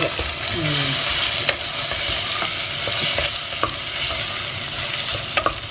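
Butter beans and sliced onions sizzling in hot oil and ghee in a pressure cooker, stirred with a wooden spoon that knocks against the pan now and then.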